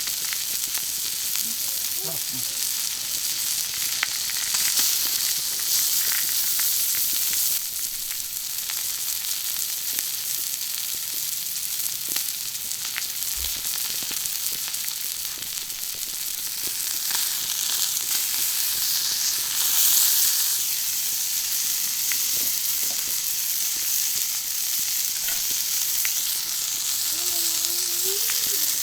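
Food sizzling on a thick iron griddle, a steady hiss dotted with sharp spattering pops. The sizzle swells louder about five seconds in and again around twenty seconds.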